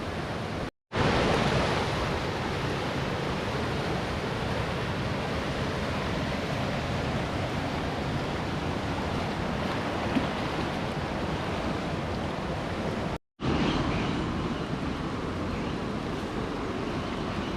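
Fast river rapids rushing in a steady, even roar of water, cut off twice by brief gaps of silence.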